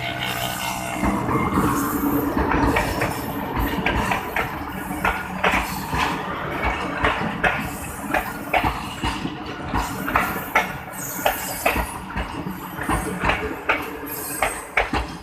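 GEU20 diesel-electric locomotive passing close by, its engine's steady drone fading in the first second, followed by passenger coaches rolling past with a continuous rumble and a run of sharp wheel clacks over rail joints.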